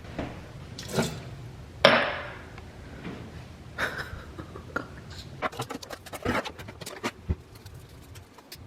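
Dishes, glasses and cutlery clinking and clattering as they are washed and stacked, with one loud clatter about two seconds in and a run of quick clinks later on.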